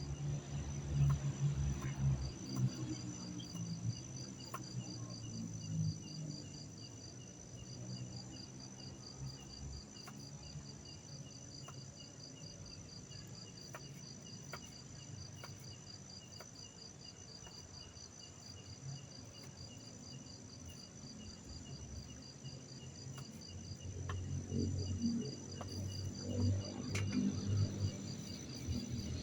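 Crickets chirping in a steady, rapid pulse through the night. Louder low muffled sounds come near the start and again near the end.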